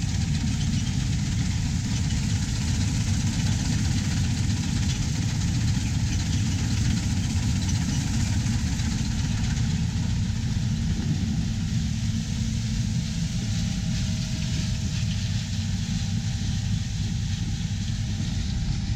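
Farm machinery engine running steadily: a low rumble under an even hiss, with no change in speed.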